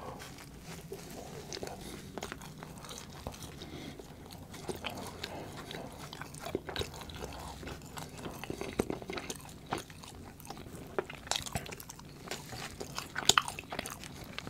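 A person biting into and chewing a soft sandwich roll close to the microphone, with many small wet clicks of the mouth. There are a few louder, sharper crackles near the end.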